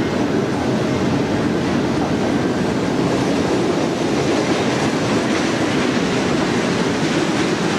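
A train running along the track: a steady, loud rumble and rattle of wheels on rail.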